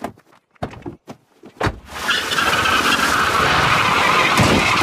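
A few short knocks, then from about two seconds in a long, loud tyre screech of a cartoon car skidding, distorted by a pitch-shifting audio effect.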